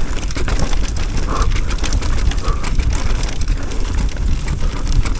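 Mountain bike descending a rocky dirt trail at speed: wind rumbling on the microphone and tyres running over dirt and rock, with frequent rattles and knocks from the bike.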